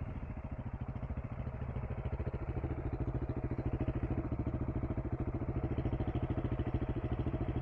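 Single-cylinder engine of a KTM 390 Enduro R dirt bike running at low speed with an even, rapid pulse, growing a little louder about two seconds in.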